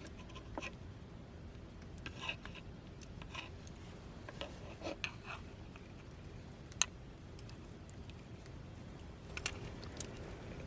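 Scattered light clicks and taps of small objects being handled, the sharpest about seven seconds in, over a faint low steady background noise.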